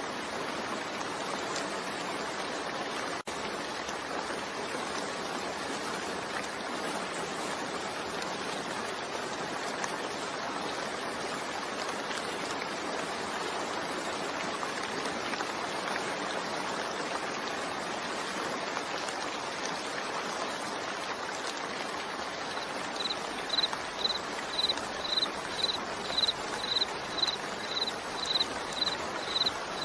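Steady rain, an even hiss. About three quarters of the way through, a high chirp starts repeating about twice a second over it.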